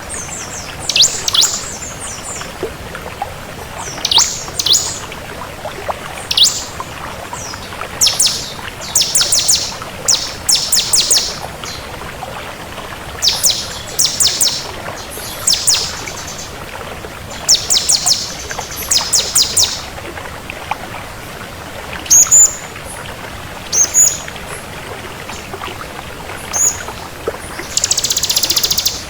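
Bar-winged prinia (ciblek kristal) singing: repeated bursts of rapid, high-pitched chirping notes, with a few short single whistles about three-quarters through and a buzzy trill near the end, over a steady faint hiss.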